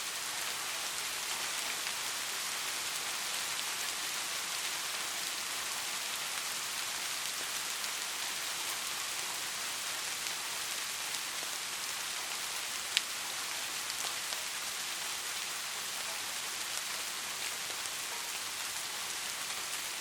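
Steady rain falling, an even hiss of raindrops with a single sharp drop-like click about two-thirds of the way through.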